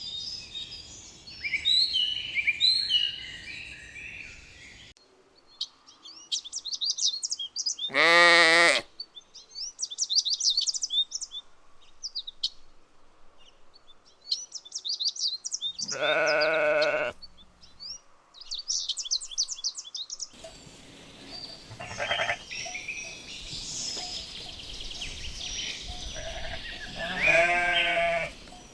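Sheep bleating three times, each a wavering call of about a second, spread across the stretch. Birds chirp between the bleats.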